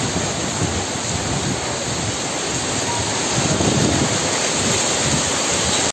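Heavy rain pouring down steadily, an even dense hiss of rainfall.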